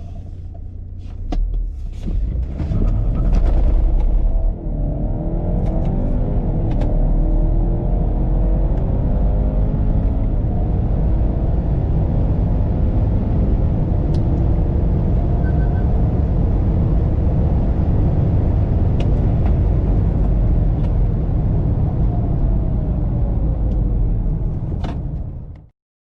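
BMW 330e's turbocharged four-cylinder petrol engine accelerating hard, its note rising in pitch, dropping at a gearshift about four and a half seconds in, then climbing again over a heavy low rumble. The note falls away late on and the sound cuts off abruptly near the end.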